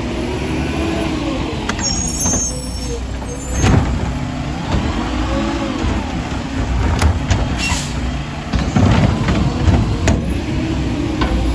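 Mack LR garbage truck with a McNeilus Meridian body working: the diesel engine revs up and down over and over, with several sharp knocks and a short hiss of air about two-thirds of the way through.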